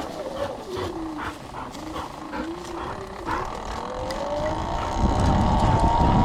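Electric dirt bike's motor whining, its pitch wandering up and down at low speed, then rising steadily about four seconds in as the bike picks up speed. Wind buffets the microphone from about five seconds in.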